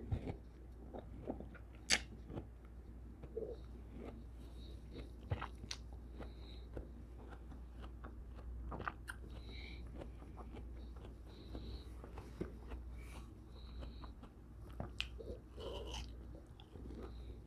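Wet chewing of soft, juicy cantaloupe chunks, with mouth and lip smacks and a scattering of short sharp clicks.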